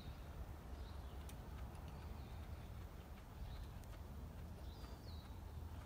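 Faint, scattered bird chirps, a handful of short calls spaced a second or so apart, over a steady low background rumble.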